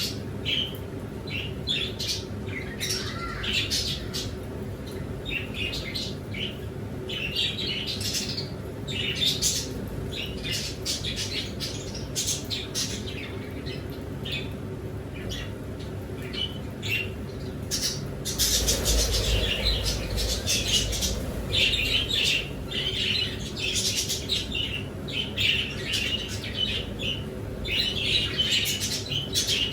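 Many kept birds calling at once, a dense mix of short chirps and squawks with some wing flapping. A low rumble comes in about 18 seconds in and lasts a couple of seconds.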